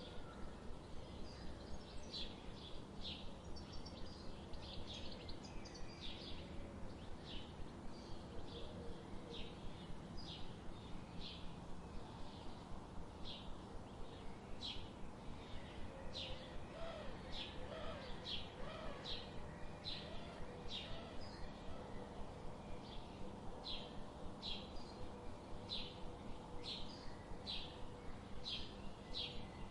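Birds chirping: one bird repeats a short, high chirp at a steady pace of about a chirp and a half to two a second, over a steady low background hum, with a few fainter, lower calls mixed in.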